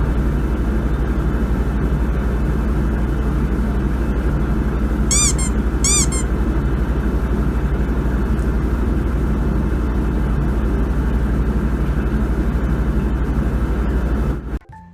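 Steady, loud low rumble of a running vehicle, with two short high-pitched squeaks about five and six seconds in; the rumble cuts off suddenly just before the end.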